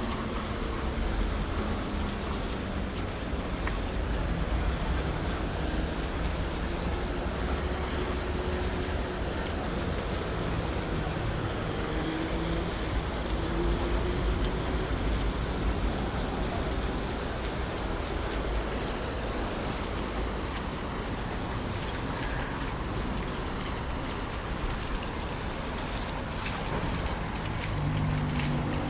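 Steady outdoor city ambience: a low rumble of distant traffic with wind noise. A deeper, engine-like hum with several tones comes in near the end.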